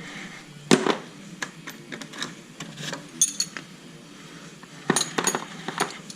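Metal clinks and knocks of hand tools and parts being handled in a workshop, a scatter of sharp strikes with the loudest about a second in and a cluster near the five-second mark.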